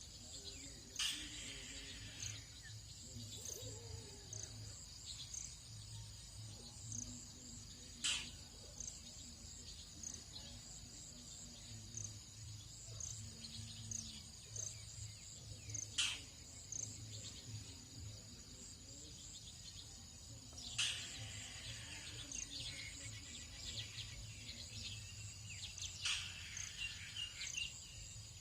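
Tropical dawn chorus: a steady insect drone with many small bird chirps throughout. A sharp, loud call stands out five times, every five to eight seconds, over a faint low pulsing hum.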